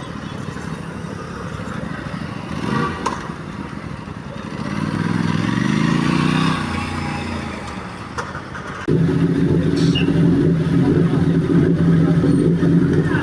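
Street noise, with an engine rising in pitch about five seconds in; then, about nine seconds in, an engine, plausibly the Kawasaki ZX-10RR's inline-four, suddenly catches and runs at a steady idle.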